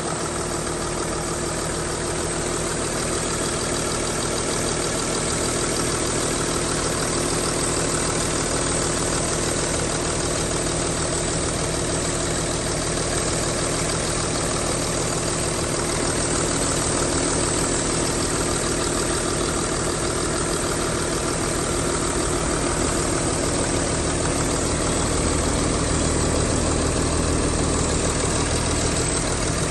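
Mercedes-Benz Sprinter 519 CDI's 3.0-litre V6 diesel engine idling steadily.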